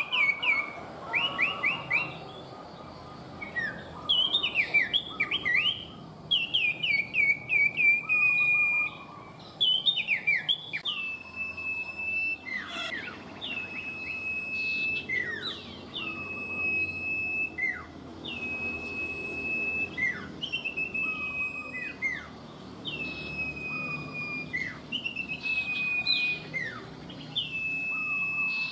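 Common iora (cipoh) singing, whistled phrases repeated over and over. First come quick runs of short falling notes, then from about twelve seconds in long drawn-out level whistles, each ending in a quick downward slur and a lower note, about every two seconds.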